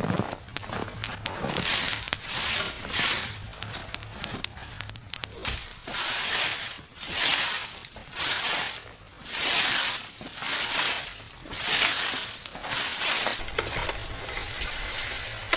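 Rhythmic scraping or crunching strokes, about one a second, after a few seconds of irregular crackling and crinkling.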